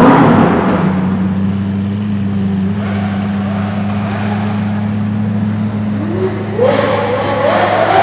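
Lamborghini engine: the revs drop back at the start, then it idles steadily, and near the end the revs climb again in several steps.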